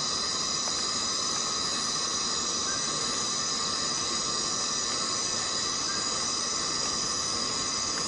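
Chorus of cicadas buzzing in a steady, unbroken drone, with high shrill bands and a lower band.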